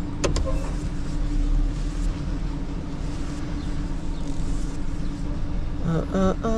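Tow truck engine running steadily, a low rumble with a constant hum, with a few clicks at the start and a brief wavering pitched sound about six seconds in.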